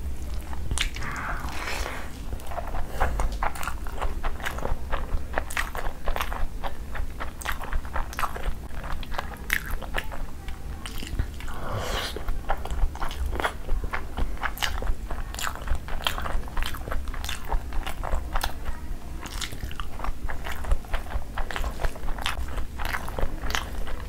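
Close-miked eating sounds: a person chewing a mouthful of spiced rice and curry, with many irregular wet mouth clicks and lip smacks, and fingers squishing through the rice on the plate.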